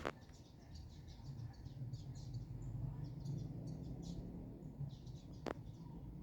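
Small birds chirping: many quick, high chirps overlapping, over a low steady hum, with one sharp click about five and a half seconds in.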